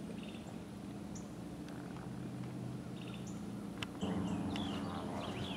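Birds chirping: short high calls repeat about once a second, with a few falling calls near the end, over a steady low outdoor hum. One sharp click sounds about two-thirds of the way through.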